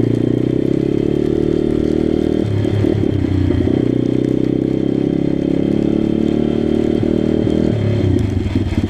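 Pit bike engine running steadily under way, its note breaking up briefly about two and a half seconds in and changing again near the end.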